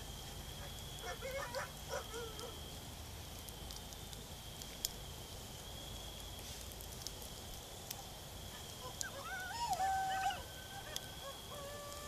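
Recorded coyote yips and howls played through a phone speaker. A brief flurry of faint yips comes about a second in, and a louder chorus of yips and short wavering howls starts near the end. A few faint crackles from a campfire are heard between the calls.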